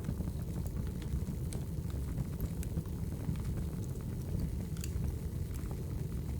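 Logs burning in a fireplace: a steady low roar of flames with scattered sharp crackles and pops from the wood.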